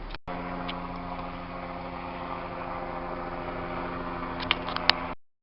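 An engine running steadily at idle, an even hum with a few sharp clicks near the end, before the sound cuts off suddenly.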